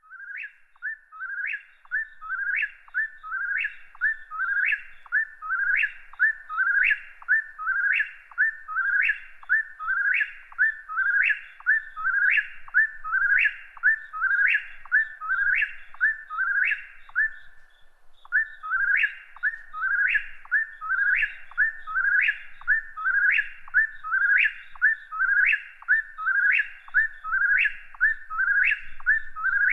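A bird calling one short note over and over at an even pace, a little more than once a second; each note sweeps sharply upward. The series breaks off briefly a little past the middle, then resumes.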